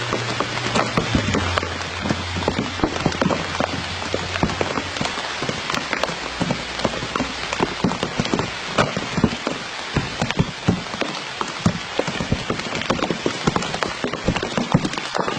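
Dense patter of raindrops hitting a surface: many sharp ticks over a steady hiss. A low steady hum runs underneath for the first five seconds or so.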